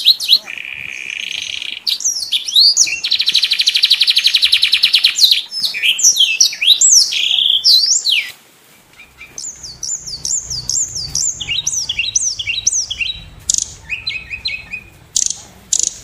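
Several birds calling in a busy mix of high chirps, a rapid trill, and whistled notes that sweep up and down in pitch, repeated many times.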